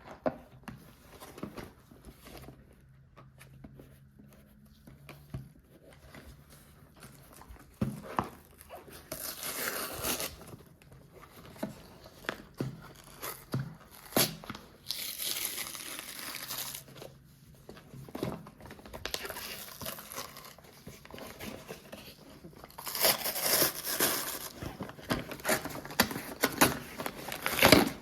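LEGO set packaging being opened and handled: crinkling and tearing of plastic and paper, with scattered small clicks and taps. Longer bursts of rustling and tearing come about a third of the way in, around the middle, and near the end.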